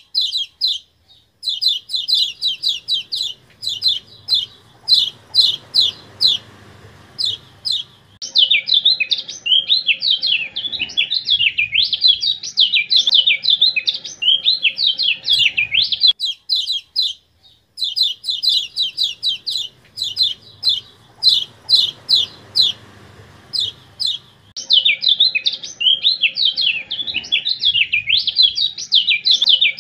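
Kecial kuning (a white-eye) song from a bird-training master track: long runs of rapid, high chirps sliding up and down. Short pauses break the runs, and the same passage repeats about halfway through as the recording loops.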